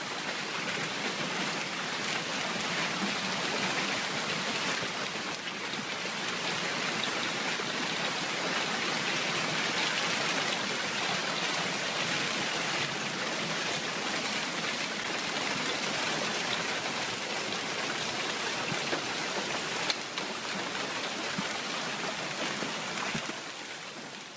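Heavy rain pouring steadily: an even, unbroken hiss of water.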